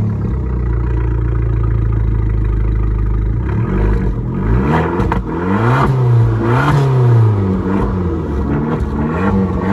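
Abarth 595 Pista's 160 PS 1.4-litre turbocharged four-cylinder running through its quad-pipe exhaust, just started. It idles steadily for about three seconds, then is revved in a series of short blips, each rising and falling.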